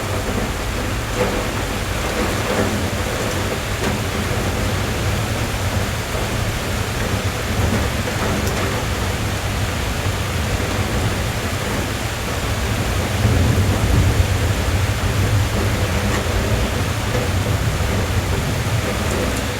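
Steady rain drumming on a car's roof and windows, heard from inside the cabin, with a deep low rumble underneath that swells briefly about thirteen seconds in.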